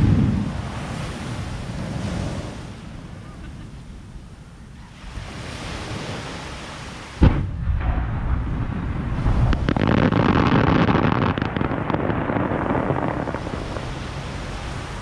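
Surf and wind noise on the microphone, then a sharp firework bang about halfway through, followed by a continuous rumble of booms and crackling as fireworks launch and burst overhead.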